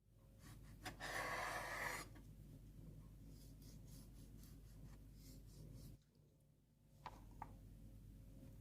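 Food-preparation handling sounds: a rustle or scrape lasting about a second near the start, then faint rubbing over a low hum, with two light clicks about seven seconds in.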